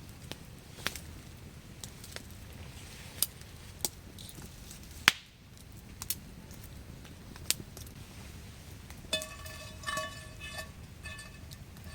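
Metal camp cookware being handled: scattered sharp knocks and taps, the loudest about halfway through, then from about nine seconds repeated ringing metal clinks.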